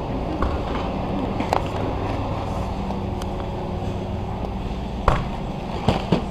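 Shopping cart rolling across a store floor, its wheels giving a steady rumble over a low hum, with a few sharp clicks and knocks, the loudest about five seconds in.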